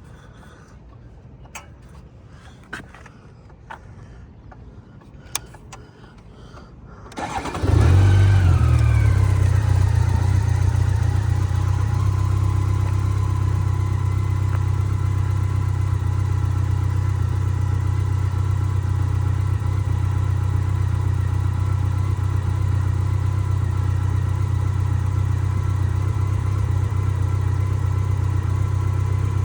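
A few faint clicks, then about seven seconds in the 2009 BMW K 1200 LT's inline-four engine is cranked and catches within a second on a cold start. It comes up loudest just after catching, then eases a little into a steady idle.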